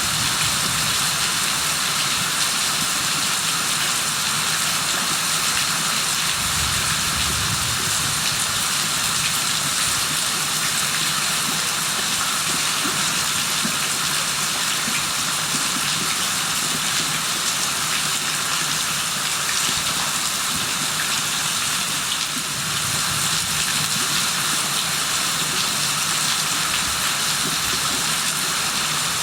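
Rain falling steadily, an even dense hiss of drops without let-up.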